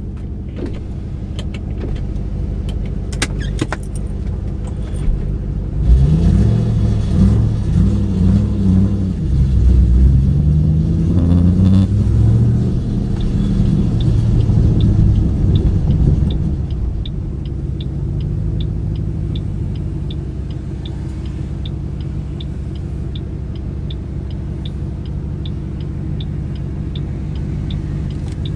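2008 Ford Mustang GT's 4.6-litre three-valve V8, fitted with new MSD Blaster coil-on-plug coils to cure a misfire, running low at first. About six seconds in it pulls away, its pitch rising and falling through the gears for about ten seconds. It then settles to a steady low run, with a turn-signal ticking about twice a second.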